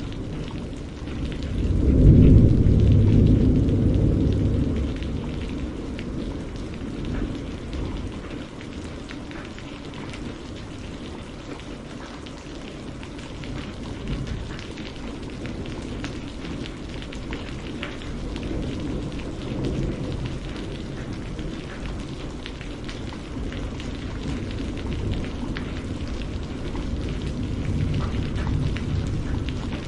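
Steady rain falling, with a low roll of thunder that swells about two seconds in and fades over the next few seconds, and fainter rumbles later on.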